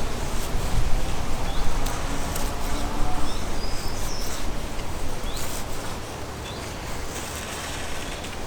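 Small birds giving short rising chirps several times over a low rumble of wind on the microphone, which eases off about two thirds of the way through; scattered light clicks and rustles.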